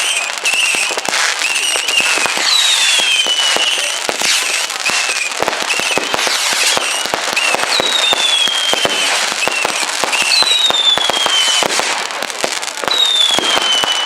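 Fireworks going off: dense crackling and popping throughout, with short repeated whistles and several long falling whistles, each lasting over a second.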